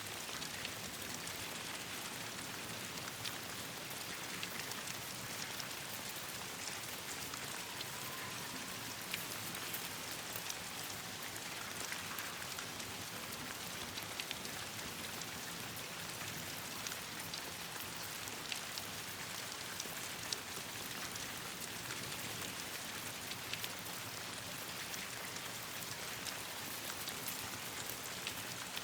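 Steady rain falling, with scattered sharp crackles from a burning campfire.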